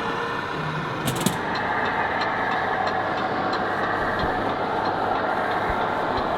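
Scale RC model truck running with a steady truck-engine sound, with a couple of sharp clicks about a second in.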